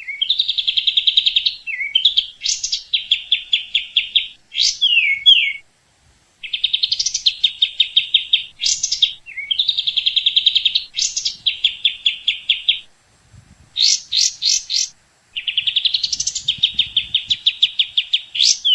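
A songbird singing loud, repeated phrases of rapid trills mixed with quick rising and falling whistled sweeps, with a couple of short breaks between song bouts.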